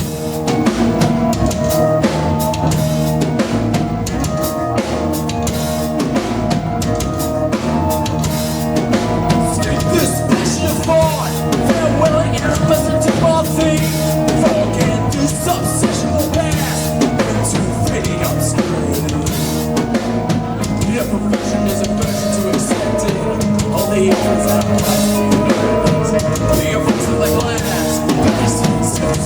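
Live rock band playing an instrumental passage: a drum kit beating steadily under held keyboard chords and bass lines.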